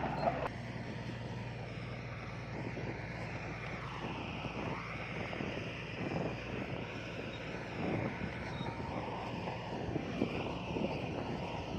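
Heavy earthmoving machinery's diesel engine running steadily, with several short clanks and knocks scattered through.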